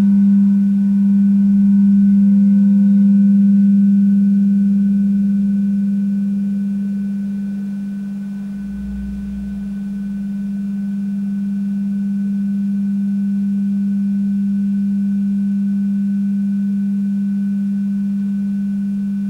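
Tibetan singing bowl sounding one low, steady, sustained tone with fainter higher overtones, fading a little near the middle and then swelling again.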